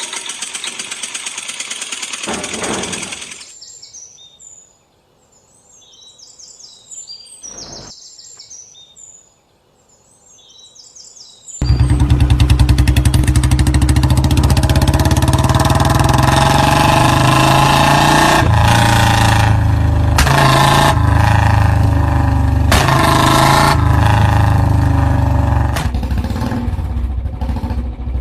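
An engine running fades out, then birds chirp through a quiet stretch. About twelve seconds in, a motorcycle engine suddenly comes in loud and keeps running with a steady low beat, its pitch shifting a little in places.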